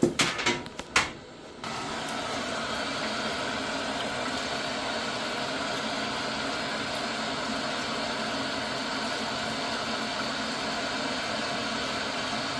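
A few clicks and knocks, then a Gledhill boiler under test starts running with a steady hum from a little under two seconds in.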